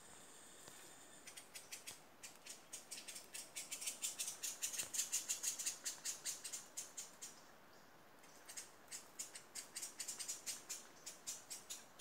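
A forest bird calling in a rapid series of high, sharp notes, about five a second. The notes grow louder, then fade, and after a short pause a little past halfway a second series begins.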